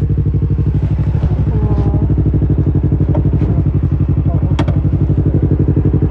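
Yamaha R25's 249 cc parallel-twin engine idling steadily through an Akrapovic exhaust, with an even, rapid pulse and no revving. A single sharp click sounds a little past halfway.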